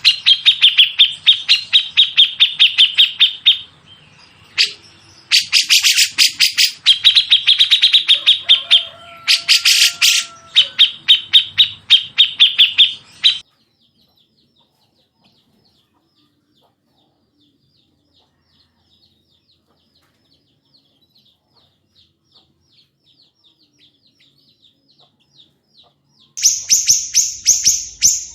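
Recorded songbird calls of the grey-cheeked bulbul and small minivet type: harsh notes fired off in fast, even runs of about eight a second. Three long runs fill the first thirteen seconds. Then comes near silence with faint ticking, and another rapid run starts near the end.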